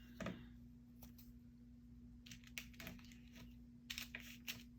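Faint, scattered light taps and clicks of paper and tape being handled on a craft table, in small clusters, over a steady low hum.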